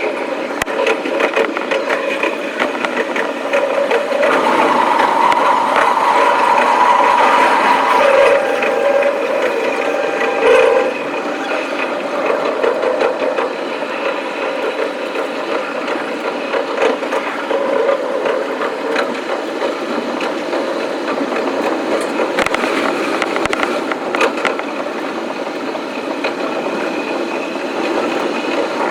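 Electric commuter train running noise heard from the front car, a dense rattling clatter sped up to five times normal speed.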